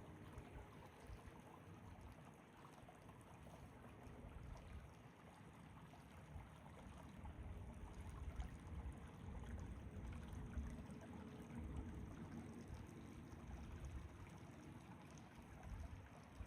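Faint, steady outdoor rushing noise with low rumbling swells, louder toward the middle.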